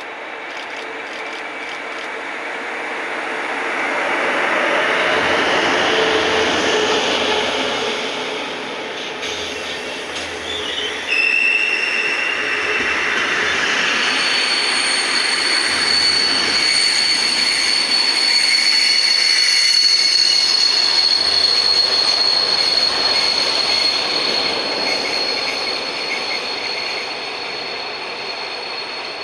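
A train running past on the rails, with wheel rumble and rattle that swells about five seconds in. From about eleven seconds in, its wheels squeal in a steady, piercing high tone that holds almost to the end.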